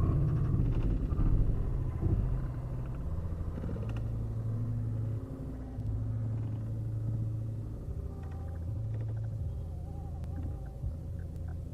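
Low, continuous rumble of a moving road vehicle, slowly fading.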